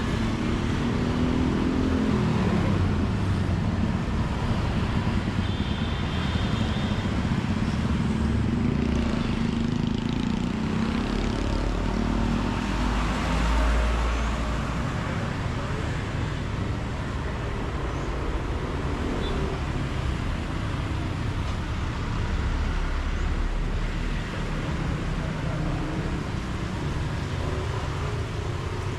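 Road traffic noise: motor vehicles running and passing along a street, with one passing close about halfway through.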